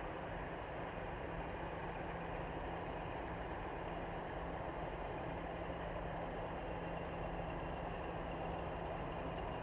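Diesel locomotive engine running steadily with an even, unchanging hum.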